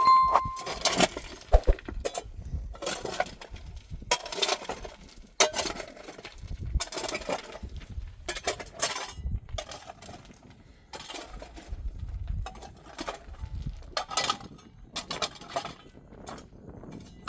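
Irregular clinks and knocks of hard objects being handled, with a short ringing clink at the start.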